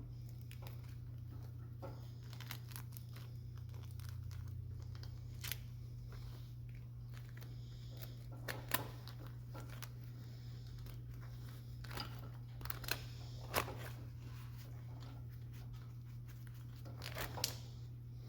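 Steel wire rope strands being worked by hand into a spliced eye: scattered scratchy scrapes and a few sharp clicks of wire, three of them louder, over a steady low hum.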